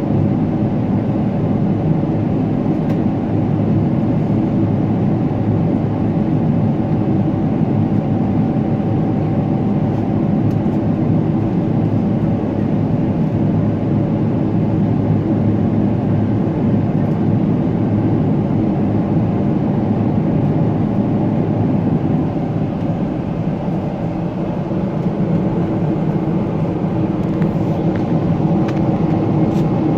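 Steady engine and airflow noise heard inside the cabin of a Boeing 777-300ER, a dense rumble with a faint steady hum.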